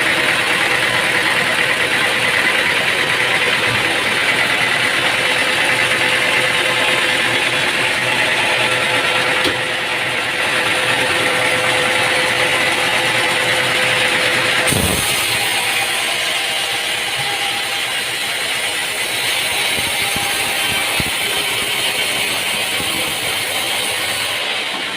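Machinery running with a steady, loud noise and a steady hum. The sound changes abruptly about two-fifths of the way in and again a little past halfway.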